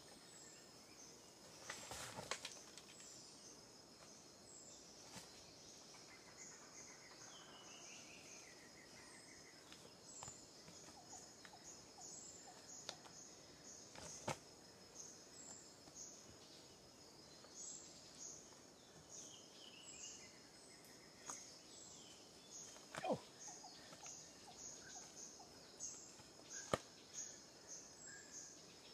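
Faint rainforest ambience: insects buzzing at a steady high pitch with rapid repeated chirps, a few descending bird calls, and several sharp knocks or snaps.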